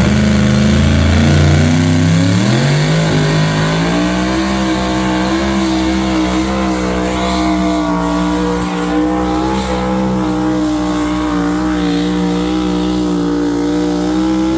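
A high-horsepower pulling tractor's engine at full throttle during a pull. Its pitch climbs over the first few seconds, then holds steady and high with a slight waver.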